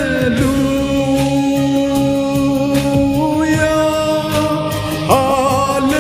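Hindi Christian worship song: a singer holds one long sustained note, likely a drawn-out 'Hallelujah', over a steady drum beat and backing instruments. A new sung phrase begins about five seconds in.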